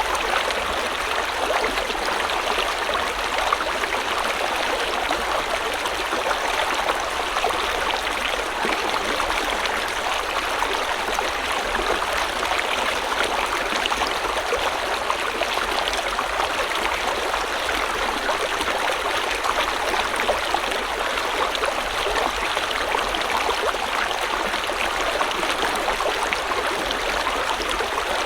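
River water flowing steadily over stones, a constant rushing babble with small splashes and no change in level.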